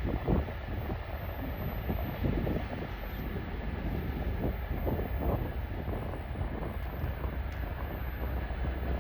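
Freight train hauled by a 2TE10UK diesel locomotive rolling past with a steady low rumble, wind buffeting the microphone.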